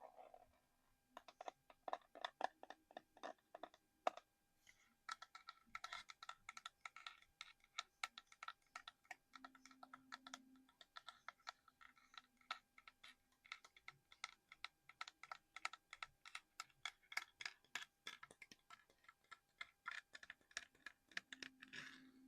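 Fast, light tapping on a small hard collectible, several taps a second, with a short pause about four seconds in.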